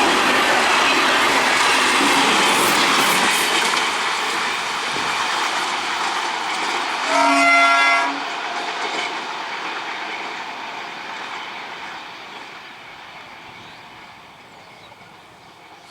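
A passing train running on the track, its rolling wheel noise gradually fading as it moves away. About seven seconds in, a train horn sounds once, for about a second.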